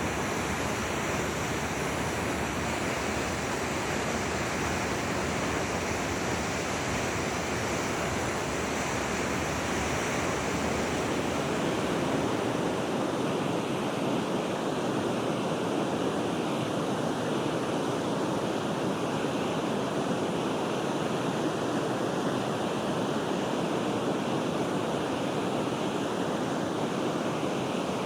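Forest river flowing: a steady, even rush of water. The deep rumble underneath thins a little about halfway through.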